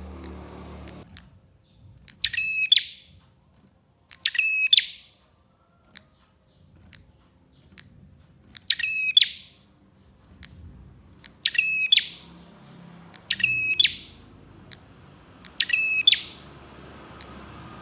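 Prinia (prenjak) singing: short bursts of rapid, sharp, ringing notes, each under a second, repeated six times about every two seconds, with faint single chips in between.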